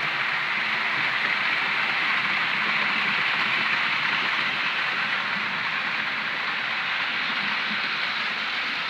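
Model train running on the layout's track: a steady whirring noise of the small motor and wheels on rail, growing slightly quieter toward the end.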